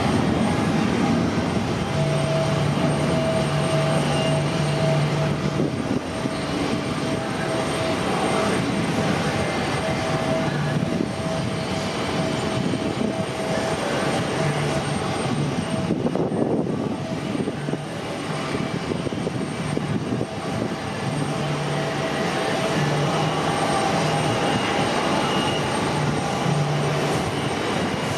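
Jet airliner engines running, a continuous rushing noise with a steady whine and a lower hum that fades in and out.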